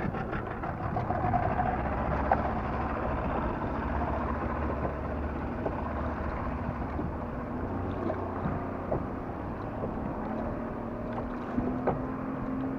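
A motorboat engine running steadily at low revs close by, its pitch stepping up in the second half, over wind and lapping water.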